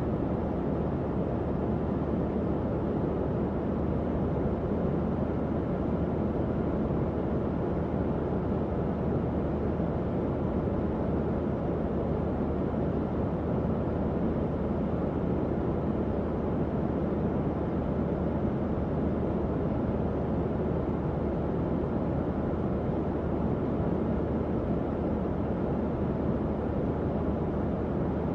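Tower fan running, a steady, even whoosh of air with a faint low motor hum underneath.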